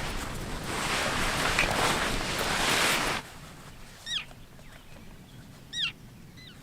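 A steady rushing noise for about three seconds, then gulls calling: two short runs of falling, squealing calls, about four and six seconds in.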